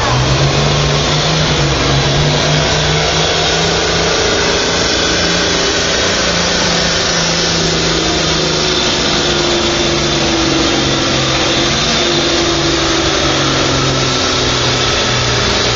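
Stock farm tractor's diesel engine running hard under load during a pull: a loud, steady drone that drops slightly in pitch near the end.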